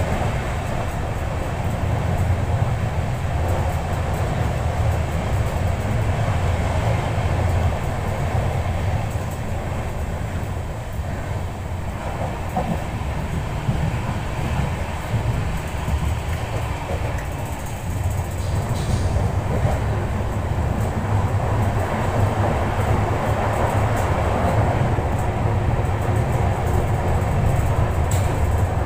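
Passenger train running at speed, heard from on board a coach: a steady rumble of wheels on the track.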